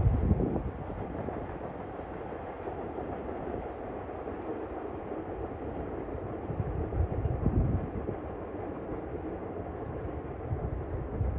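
Container freight train running along the line at a distance, a steady rumble of the wagons on the rails, with louder low surges near the start and about seven seconds in.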